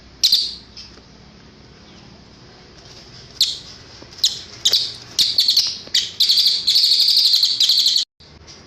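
Cililin bird song from a masteran training recording: one sharp high call, then after a pause a few short high notes that quicken into a fast, dense chattering trill, which cuts off abruptly near the end.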